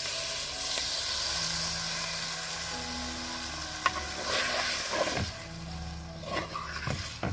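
Marinated chicken livers hitting hot oil with onions and green chilies in a clay pot and sizzling loudly, the sizzle starting suddenly and easing off after about four seconds. A wooden spoon then stirs the mix, scraping against the pot several times.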